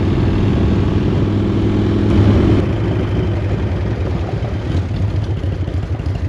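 A chopper motorcycle's engine running under way, riding on its fuel reserve. It grows louder briefly about two seconds in, then eases off toward the end as the bike slows.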